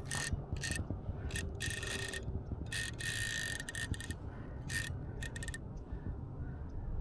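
A bait-finesse baitcasting reel's drag clicking in a series of short, quick bursts as a big salmon pulls line off against it. The bursts come over the first five and a half seconds, and the reel then falls quiet.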